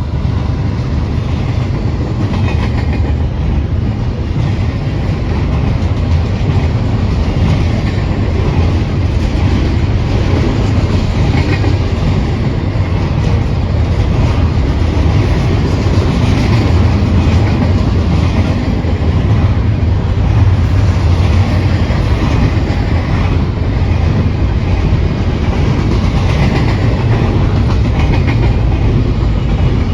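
Union Pacific freight train rolling past, a loud steady rumble of steel wheels on rail, with a faint high wheel squeal a few times.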